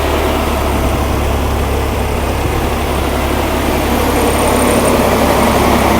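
Air-cooled Corvair flat-six engine of 80 hp running steadily at a fast idle on its first start after a rebuild. It gets a little louder near the end.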